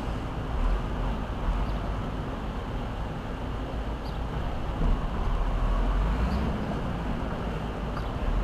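Low, steady rumble of a semi truck's diesel engine running as it manoeuvres, with some swelling and easing in the lowest part of the sound.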